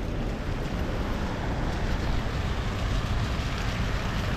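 Steady hiss of rain and road traffic on a wet road, with no single event standing out.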